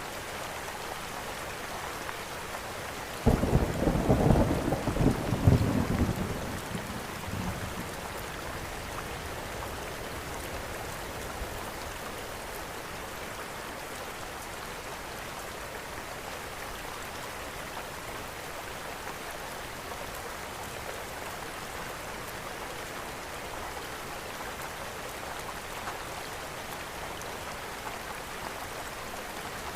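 Steady rain falling, with a thunderclap about three seconds in that rumbles low for a few seconds and dies away.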